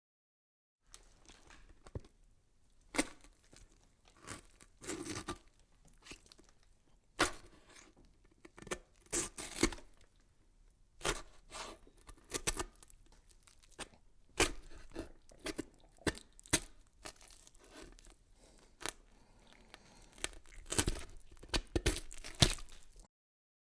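Irregular crinkling and tearing noises with scattered sharp cracks, starting about a second in and cutting off abruptly near the end.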